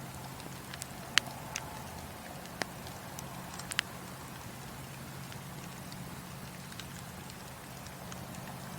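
Wood fire in a fireplace crackling, with scattered sharp pops, the loudest of them in the first four seconds, over a steady low hum.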